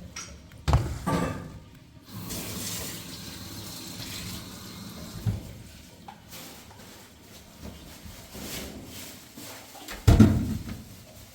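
Water running or pouring, as from a tap, with knocks and clatter of dishes and pots. Hard knocks about a second in and again near the end are the loudest sounds.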